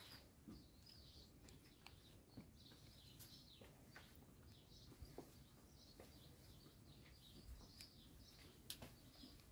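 Faint small birds chirping repeatedly, short high chirps, with a few soft clicks.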